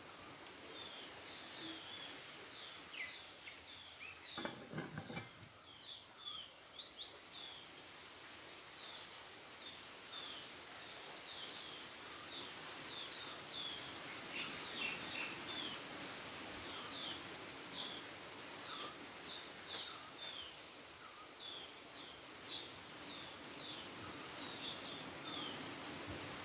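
Small birds chirping steadily in the background, short high chirps two or three times a second, over a faint steady hiss. A brief low noise comes about four seconds in.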